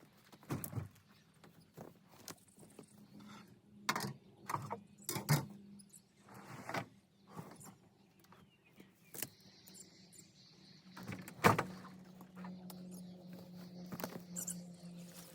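Irregular knocks and thuds of heavy firewood logs being handled and loaded, the loudest a little over eleven seconds in. A steady low hum comes in near the end.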